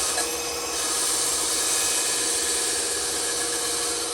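Bandsaw running with a steady hum and an even whir, holding at one level throughout.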